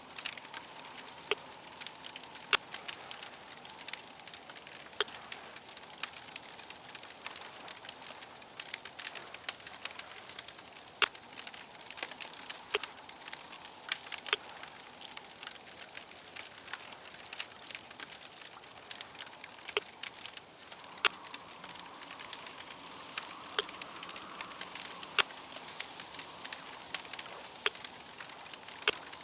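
Wood fire crackling, with sharp irregular pops and snaps over a steady hiss.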